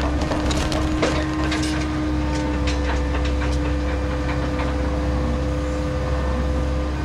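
Liebherr log loader's diesel engine running steadily with a constant hydraulic whine. Logs knock and clatter against each other through the first few seconds as they are loaded.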